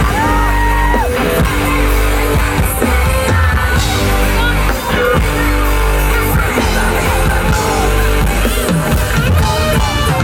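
Loud pop music with singing over a heavy bass beat, from a live stage performance.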